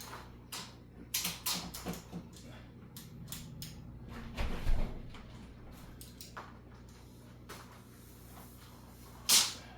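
Sailcloth being handled and pulled tight: scattered rustles and light clicks, with two louder short rustling swishes, the first about four and a half seconds in with a low thump, the second near the end.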